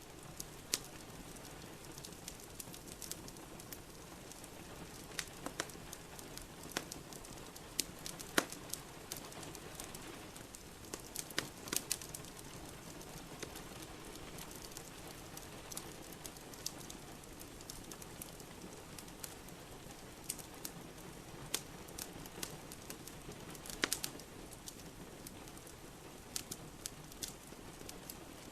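Wood fire crackling in a fireplace, with irregular sharp pops, the loudest about 8, 12 and 24 seconds in, over a steady hiss of rain.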